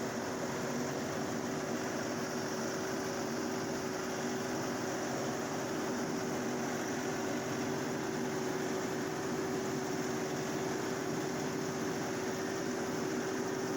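LS compact tractor's diesel engine running at a steady throttle with a constant hum, the tractor working up a steep incline in four-wheel drive with a loader full of logs.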